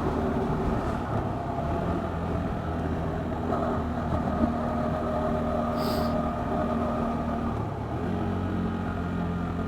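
KTM 390 Duke's single-cylinder four-stroke engine running at a steady speed, its note shifting slightly about eight seconds in.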